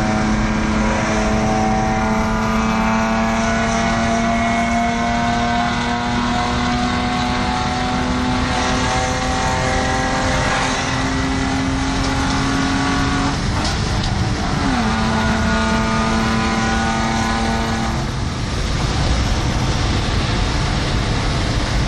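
Car with a remote-controlled exhaust valve driving through a tunnel, its exhaust note steady and slowly rising in pitch, then dropping sharply about two-thirds of the way through as with a gear change. Near the end the engine note fades and a rushing road and wind noise remains.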